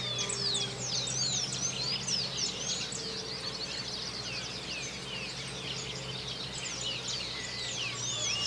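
Dawn chorus: many birds singing at once, a dense mix of quick rising and falling chirps and whistles, over a steady low hum.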